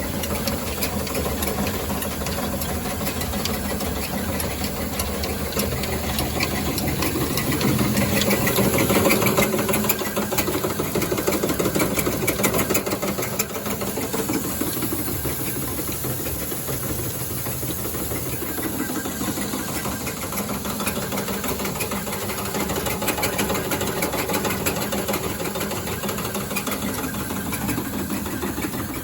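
Old Ruston Hornsby slow-speed diesel engine running steadily, with a dense rapid mechanical clatter and some hiss; it grows louder for a few seconds about a third of the way in, then settles.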